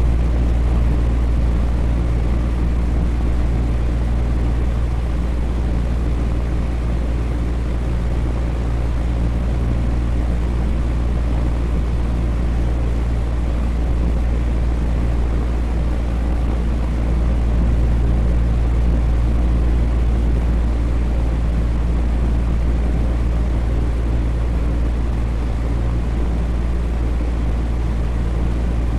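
Electric fan running steadily, a low hum with an even whoosh of moving air.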